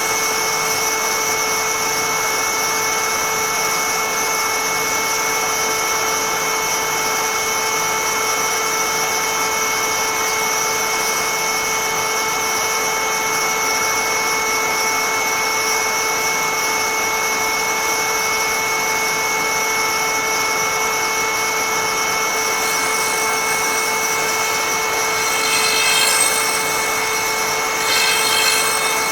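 High-speed cutter motor of a woodturning threading jig running with a steady whine. In the last few seconds a rasping, scraping noise joins in as the cutter bites into the wood, cutting the thread.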